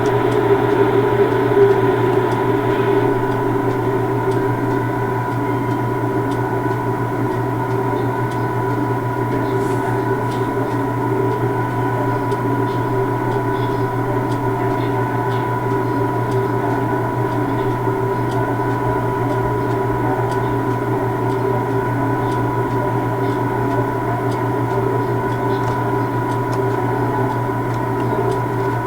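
Steady hum of standing railway vehicles, with constant tones held throughout and a few faint clicks.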